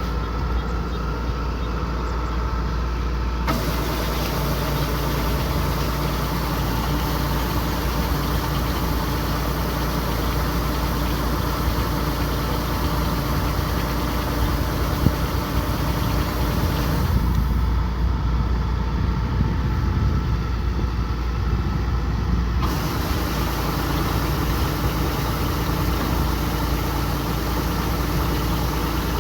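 Kubota combine harvester's diesel engine running steadily with a heavy low drone, the machine's working noise constant throughout, its upper tones shifting abruptly twice.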